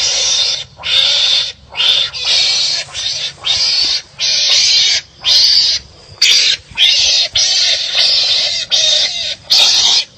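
Animals squabbling: a rapid run of harsh, raspy barking calls of about half a second each, following one another with only short gaps.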